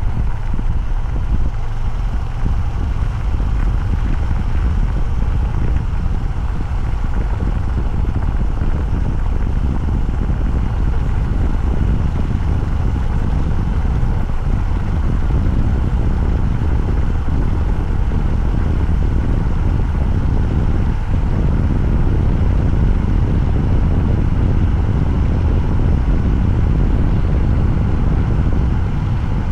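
Motorcycle on the move at a steady pace: the engine and rushing air make a loud, even rumble with no clear change in speed.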